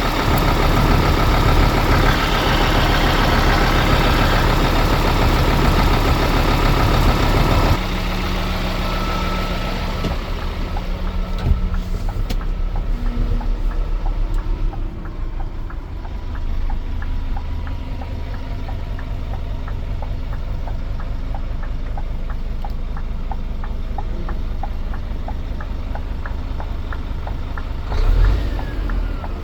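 Scania P320 truck's diesel engine idling steadily. The sound changes abruptly about a quarter of the way in, from a dense, noisier sound to a quieter, even idle with a fine regular ticking.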